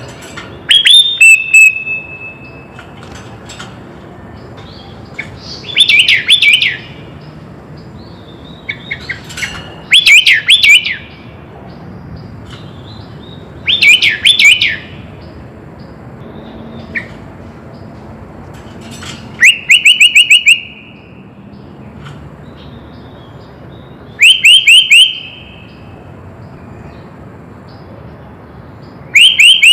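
Sooty-headed bulbul (kutilang) singing loud, short phrases about every four to five seconds. The later phrases are quick runs of repeated, downward-sliding notes.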